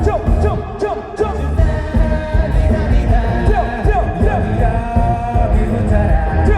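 Live rock band playing a song with a male lead vocal over loud drums, bass and guitars.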